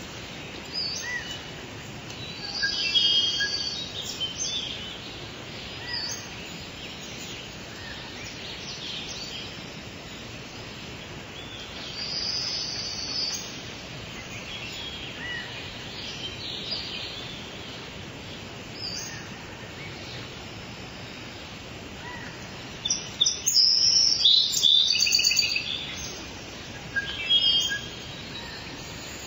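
Small songbirds chirping and calling in short bursts over a steady background hiss, with the loudest flurry of chirps about three-quarters of the way through.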